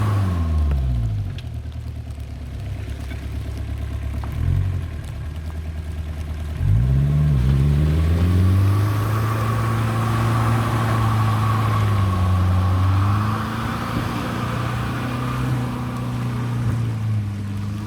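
1997 Jeep Cherokee XJ's 2.5-litre VM Motori four-cylinder turbo diesel engine, its revs falling toward idle in the first couple of seconds, a short blip about four and a half seconds in, then picking up under throttle about seven seconds in and rising and easing off with the throttle after that.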